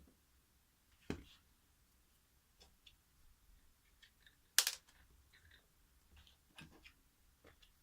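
Handling sounds from a small vibration water pump being taken apart or reassembled. A sharp click comes about a second in and a louder knock near the middle, with light scattered clicks and rustling between; the pump is not running.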